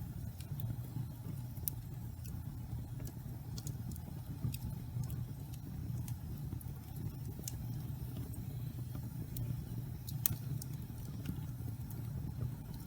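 Damp pine logs burning in a fireplace: a steady low rumble of the fire with scattered sharp crackles and pops, the strongest pop about ten seconds in.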